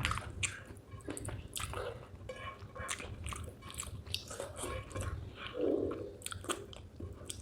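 Close-miked chewing of spicy chicken gizzard with rice: irregular wet smacks and clicks of a mouth eating, with a brief lower-pitched sound a little before six seconds in.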